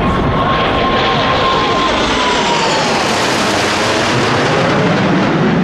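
Boeing F/A-18 Hornet fighter jets passing overhead with a loud jet-engine roar that swells to a peak about three to four seconds in, while a whine slowly drops in pitch.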